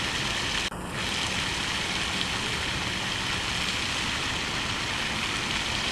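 Steady background rush with no distinct events, dipping briefly a little under a second in.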